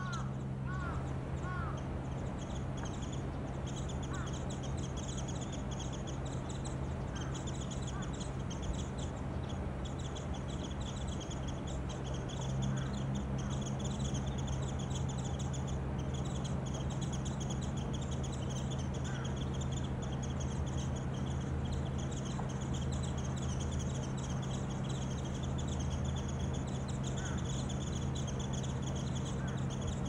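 Small birds twittering high and almost without a break, with a few lower calls in the first couple of seconds and now and then later, over a steady low hum.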